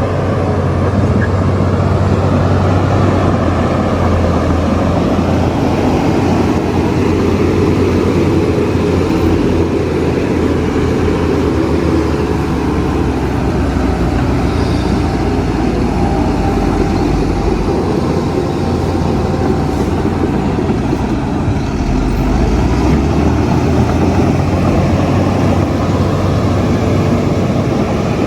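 Heavy diesel earthmoving machinery working: a loud, steady engine drone with a deep low hum that shifts slightly in pitch now and then.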